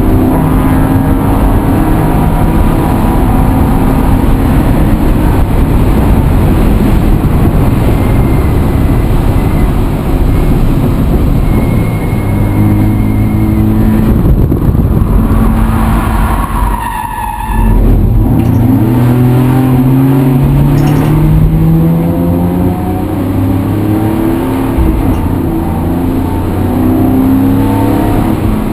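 A motor vehicle's engine running under load and revving up. About two thirds of the way in it briefly dips as the gear is changed, then rises steadily in pitch as it pulls away again, over a constant rushing noise.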